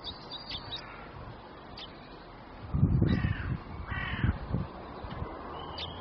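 Two loud, harsh calls from a large bird, each falling in pitch, about three and four seconds in, over faint high chirps of small garden birds.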